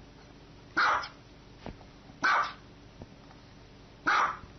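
Small white dog barking: three short, single barks about a second and a half apart.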